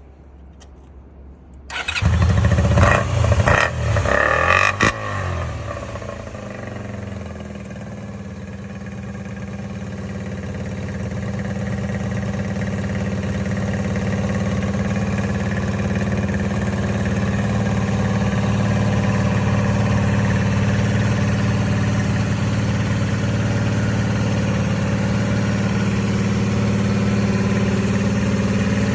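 Honda Magna 250S V-twin motorcycle engine breathing through left and right dual aftermarket mufflers. It starts about two seconds in, is blipped a few times, then settles into a steady idle that grows slightly louder over the next several seconds.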